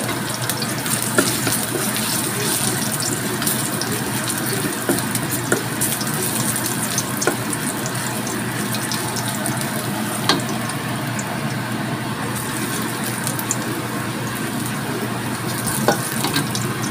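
Minced garlic sizzling steadily in hot oil in a wok as it is stir-fried, with a few sharp knocks of a wooden spatula against the wok.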